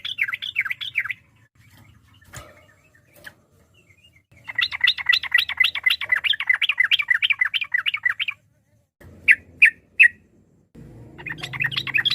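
Yellow-vented bulbul (trucukan) singing: long runs of rapid chattering notes, about six a second, broken by a pause with three single notes before the next run begins.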